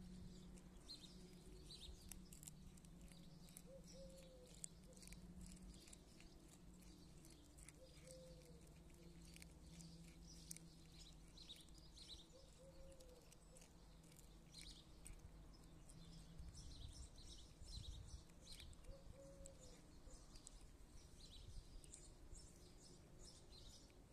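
Faint birdsong: small birds chirping high and quick, with a low cooing call repeated about every four to five seconds.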